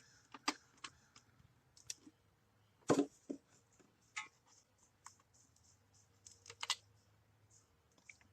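Scattered light clicks and knocks of plastic quart oil bottles being handled while engine oil is added, the loudest knock about three seconds in.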